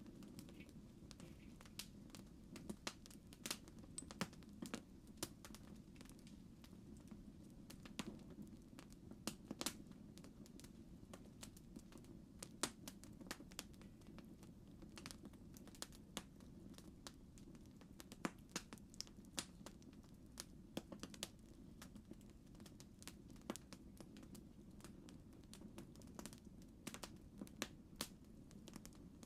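Campfire crackling faintly: irregular sharp pops and snaps over a steady low rumble of burning.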